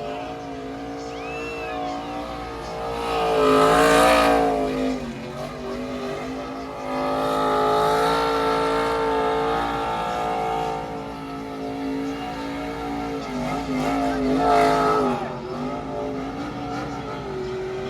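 NASCAR Truck Series race trucks' V8 engines running around the track, their pitches rising and falling as they go by. Two louder passes come about 4 seconds and 15 seconds in.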